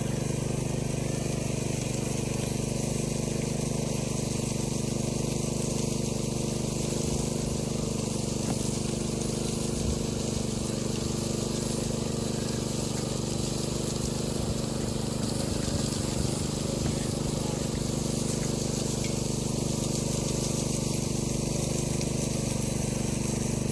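An engine running steadily at a constant speed, a low hum with several steady tones that does not change throughout.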